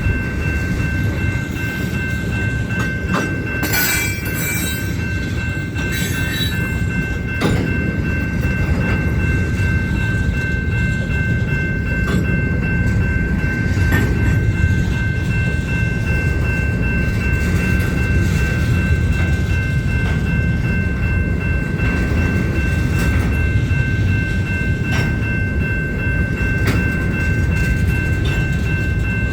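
Union Pacific freight train cars rolling past: a steady low rumble with scattered wheel clicks over the rail joints, and a steady high ringing tone that runs under it all. About four seconds in there is a brief high squeal.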